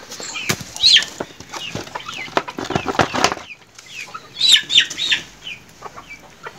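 Short, sharp bird calls sliding down in pitch, about a second in and again a few times around four and a half seconds, among scattered clicks and knocks from handling a plastic basin.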